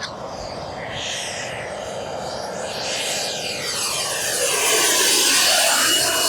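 A turbine RC helicopter with JetCat PHT3 turbine mechanics in flight: a high turbine whine over a steady hissing roar. It grows louder as the helicopter moves closer and is loudest about five seconds in.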